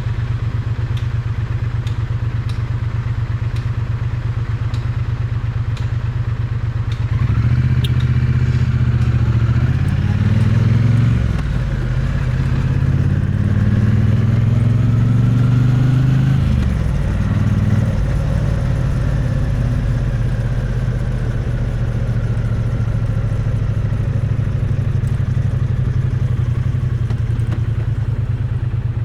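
Triumph Bonneville T100 parallel-twin engine heard close to the exhaust: running steadily at low revs, then for about ten seconds the revs climb and drop several times as the bike accelerates through the gears, before settling back to a steady low note.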